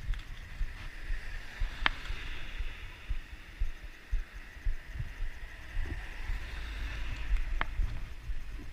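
Riding noise from a moving bicycle: wind buffeting the microphone with irregular low thumps over a steady hiss of tyres on the road. Two sharp clicks sound, about two seconds in and near the end.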